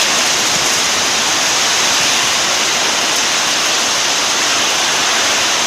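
Heavy rain driven by strong storm winds: a steady, loud, even rush during a summer thunderstorm.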